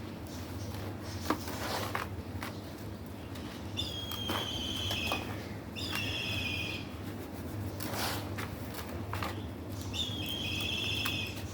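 Black stone being crushed and crumbling, in scattered crackles and small snaps. A bird calls three times in the background, each call about a second long.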